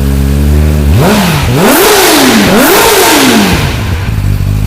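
Kawasaki ZX-10R's inline-four engine idling, then revved three times in quick succession, each rev rising sharply and falling back, before dropping back to idle.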